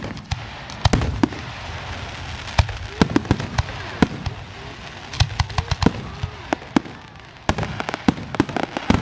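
Fireworks display: many sharp bangs at irregular intervals over continuous crackling, with a dense run of bangs near the end.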